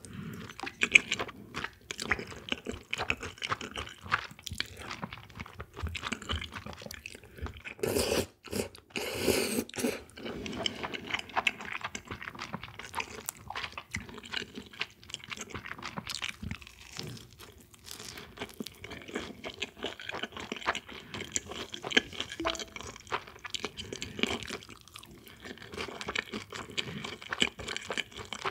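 Close-miked eating: steady chewing and crunching of food, full of small crisp clicks, with a louder, noisier stretch about eight to ten seconds in.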